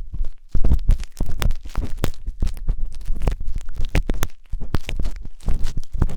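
Wooden tanghulu skewer scraping and rubbing inside the silicone ear of a 3Dio binaural microphone: close, irregular scratchy strokes with deep rumbling thuds, pausing briefly about half a second in and again a little past four seconds.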